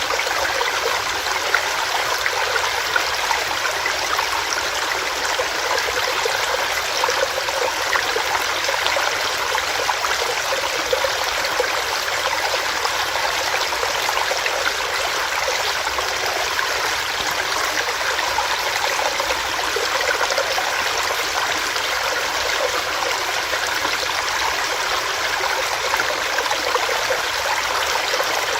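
Small rocky stream with water running and splashing over rocks, a steady, even rushing.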